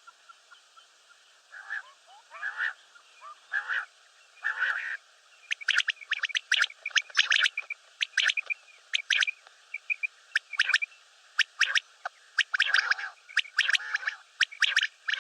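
Common quail calling: a few low, rasping notes about a second apart, then from about five seconds in a rapid run of sharp, short call notes.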